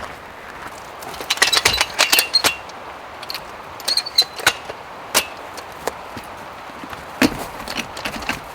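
Irregular light clinks and knocks of hard objects being handled, some with a short metallic ring, in two busy clusters and a few scattered ones near the end.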